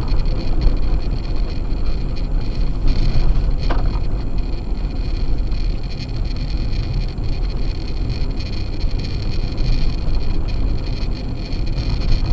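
Acura MDX driving on a snow-covered road: a steady rumble of its Sumitomo Ice Edge winter tires and engine, with one light click just under four seconds in.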